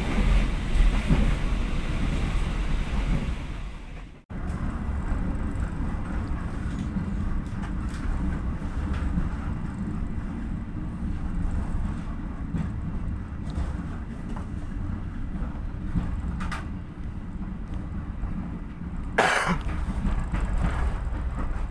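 Steady low rumble of a diesel-hauled local economy train running, heard from inside a passenger carriage. The sound breaks off for an instant about four seconds in, and a short loud burst of noise comes near the end.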